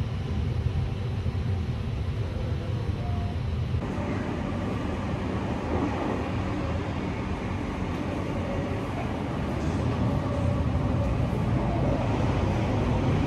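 Sunrise Seto sleeper train running at speed, heard from inside its corridor: a steady low rumble of wheels on rails and car body. The rumble grows fuller about four seconds in and louder near the end.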